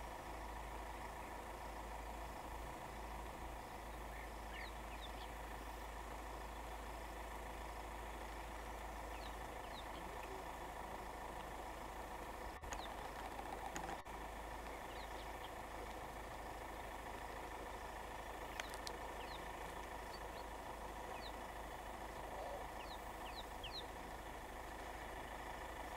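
Steady outdoor ambience with a constant low rumble, and faint short bird chirps scattered throughout. Two brief clicks sound about halfway through.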